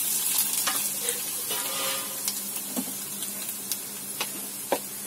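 Cut dried red chillies and fennel seeds sizzling in hot oil in a kadai, with scattered sharp pops. The hiss is strongest at first and slowly dies down.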